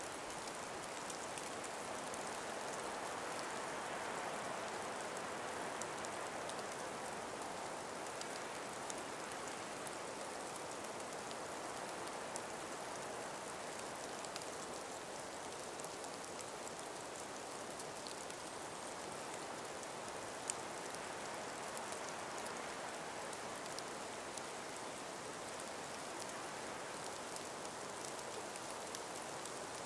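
Calm winter breeze in an ice-covered forest: a soft, steady rush, with many faint light ticks scattered through it and one sharper tick about two-thirds of the way through.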